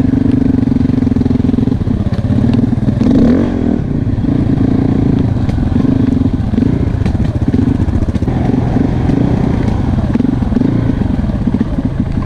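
Enduro motorcycle engine running while riding, its pitch rising and falling with the throttle, with scattered clatter.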